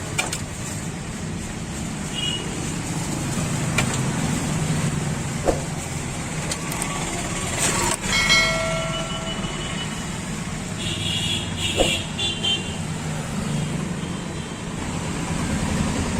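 Roadside traffic: vehicle engines running with a steady rumble, and horns honking in short blasts, one about eight seconds in and a higher-pitched one around eleven to twelve seconds in.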